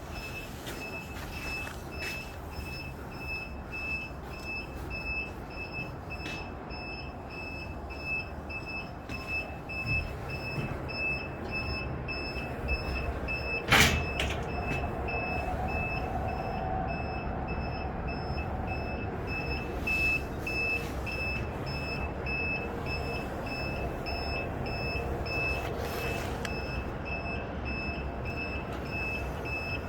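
Construction-site ambience: a vehicle's reversing alarm beeps at a steady even rate over a low engine rumble. One sharp bang stands out about fourteen seconds in.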